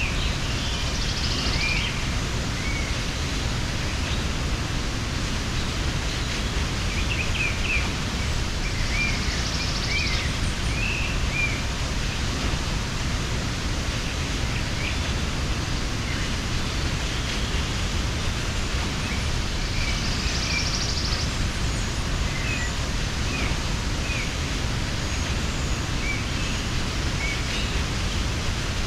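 Steady rush of a mountain waterfall, with birds giving short chirps scattered through it.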